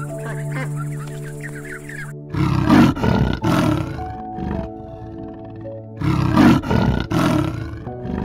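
A big cat roaring in two bouts of rough, grunting calls, the first about two seconds in and the second about six seconds in, over steady background music.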